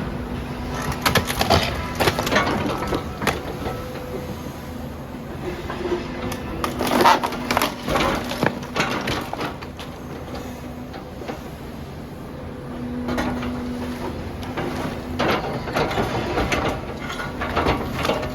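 A demolition machine breaking up a building: irregular crunching and cracking of masonry and debris over the machine's steady engine drone, with the loudest crashes about a second in and again around seven to nine seconds in.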